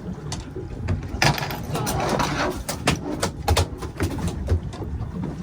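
A run of sharp knocks and clatters on board a fishing boat, irregular and close together, with a louder noisy rush about a second in.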